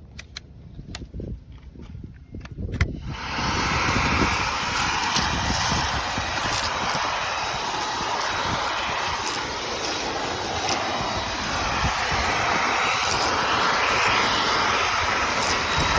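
A few clicks and handling knocks, then about three seconds in a cordless brushless stick vacuum switches on and runs steadily with an even, loud whooshing hiss.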